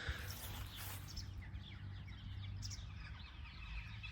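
Small birds chirping: many short, quick calls one after another, over a steady low hum.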